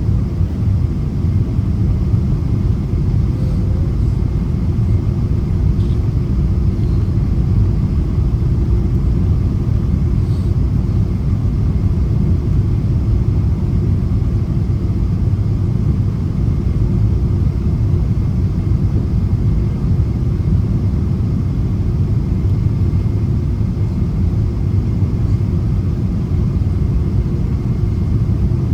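Steady low rumble of engine and airflow noise heard inside the cabin of a Boeing 777-200ER with Rolls-Royce Trent 800 engines, descending on approach. A faint steady whine sits above the rumble.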